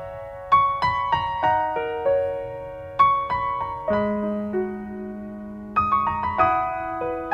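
Background piano music: a slow melody over chords, each note struck and left to ring and fade.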